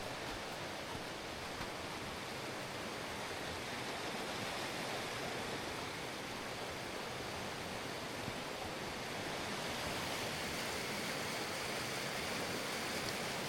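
Steady, even rush of fast-running water, such as a swollen stream or waterfall.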